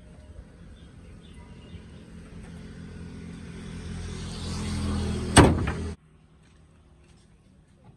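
A vehicle engine running and growing steadily louder, then a single loud bang about five seconds in; the sound cuts off abruptly half a second later.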